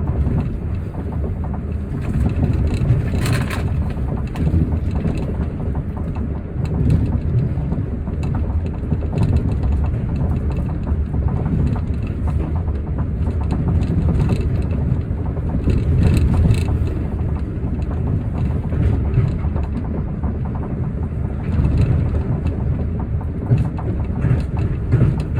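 Osaka Metro New Tram, a rubber-tyred automated guideway train, running along its guideway: a steady low rumble with occasional clicks and rattles.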